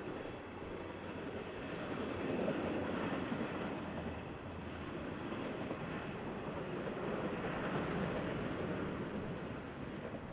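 KiYa 141 diesel track-inspection railcar running along the line across the valley: a rumble of engine and wheels that swells twice and eases off near the end.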